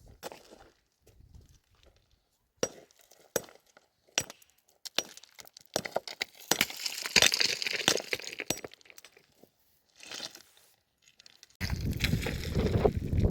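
A string of sharp clinks and knocks, as of hard objects such as glass being handled and set down, with a busier, rustling stretch in the middle. Near the end the sound cuts suddenly to a louder, steady low rumbling noise.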